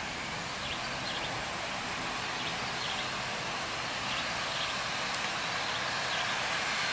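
Distant jet airliner's engine noise, slowly building as the aircraft approaches, with faint bird chirps now and then.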